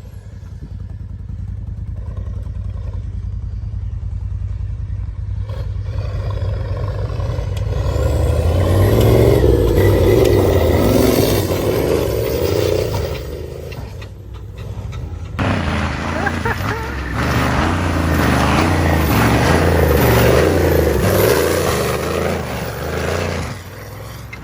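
Turbo IDI diesel engine of a stub truck working hard under load as it drives in reverse through sand whoops, the engine note rising and falling with the throttle. It gets louder about a third of the way in, dips, then runs hard again before easing off near the end.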